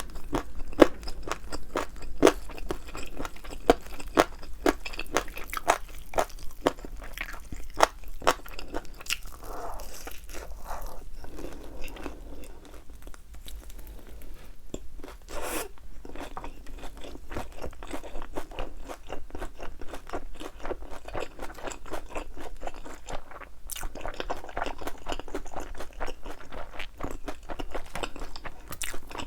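Close-up crunching and chewing of thin, crispy fried chicken wings, many sharp crackles of the coating, densest in the first half and thinning to softer chewing later.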